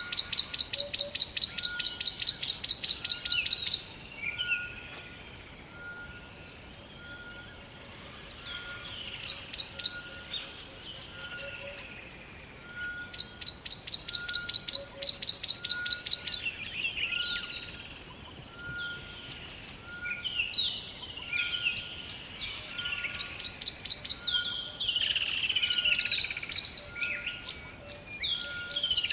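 Several birds singing in a forest chorus. One sings fast, high, rattling trills in bouts of a few seconds, over scattered chirps and a short note repeated about once a second.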